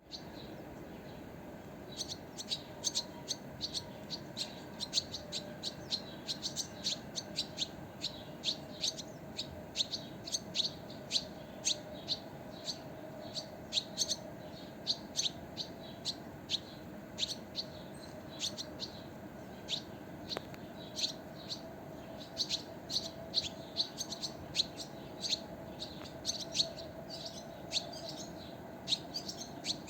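Small birds chirping: a dense run of short, sharp, high chirps, several a second, starting about two seconds in.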